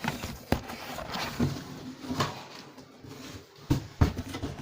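Cardboard box and packaging being handled during unboxing: a string of knocks and thuds with rustling between, the loudest about half a second in and two close together near the end.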